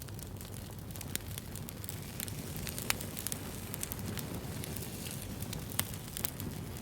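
Wood fire burning: a steady low rumble of flames with frequent sharp crackles and pops, two of them louder, about three seconds in and near the end.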